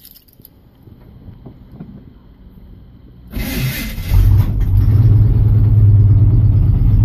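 A 1982 Chevy Custom Deluxe pickup's engine being started cold without a choke: after a short noisy burst of cranking a little over three seconds in, it catches and runs loud and steady.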